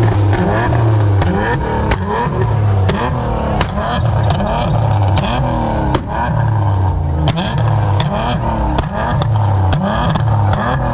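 Car engines revving over and over, the pitch climbing and dropping again with each rev.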